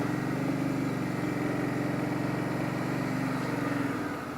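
Motorcycle engine running steadily at a constant low pitch, with no revving, fading out near the end.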